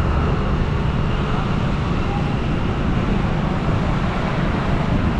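Steady low rumble of wind and road noise from a moving bike, even throughout with no distinct events.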